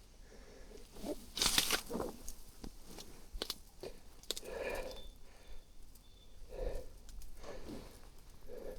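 Irregular rustling and crunching with sharp crackles, the loudest about a second and a half in.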